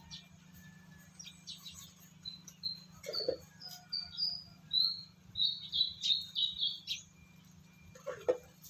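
Bird chirping: a run of short, high, rising whistled notes that come faster and louder about five seconds in. Two brief lower-pitched cries come about three seconds in and near the end, over a steady low hum.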